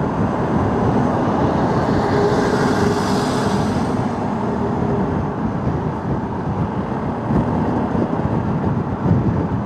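Motorcycle riding on a rough road: steady engine, tyre and wind noise on the rider's microphone. A hiss swells and fades between about two and four seconds in.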